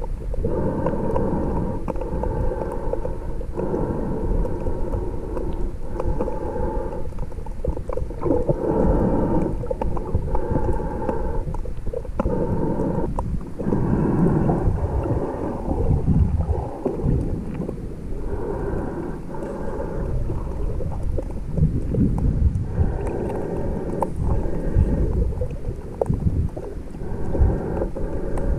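Muffled underwater sound of moving water with a heavy low rumble, heard through a submerged camera while snorkelling. A hollow tone comes and goes every second or two.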